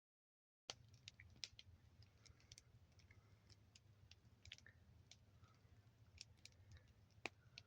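Small wood fire crackling quietly, with irregular sharp pops and snaps, one louder pop near the end. It starts after a brief moment of dead silence.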